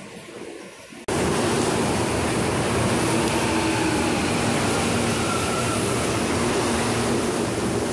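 CPTM Series 8000 electric commuter train moving along the platform close by: a steady, loud rush of wheel and motor noise with a faint hum underneath. It starts abruptly about a second in.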